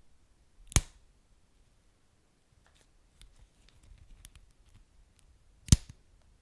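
Wood fire crackling in a fireplace: two sharp, loud pops, about a second in and near the end, with faint small crackles between.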